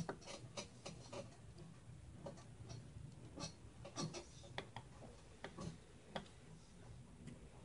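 Faint, irregular small clicks and ticks of a screw being turned into a 3.5-inch hard drive's mounting hole, metal scraping and clicking on metal.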